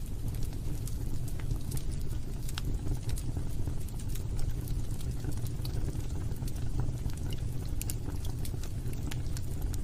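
Log fire burning in a fireplace: a steady low rumble of the flames with frequent sharp crackles and pops from the burning wood.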